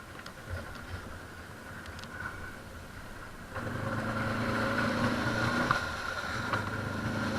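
ATV engine running low and faint, then picking up and running louder from about halfway through, as the stuck quad is driven forward.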